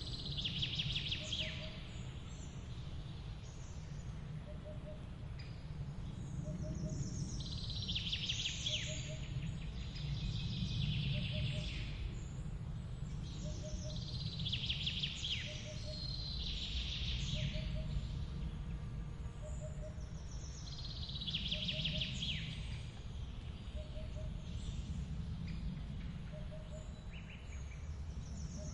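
Forest waterfall rushing as a steady low rumble, with a songbird singing a quick phrase that falls in pitch about every six or seven seconds. A faint double chirp repeats about every second and a half.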